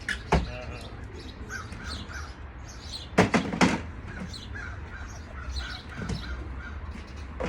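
Birds calling: a run of small repeated chirps, and two loud, harsh caw-like calls close together about three seconds in.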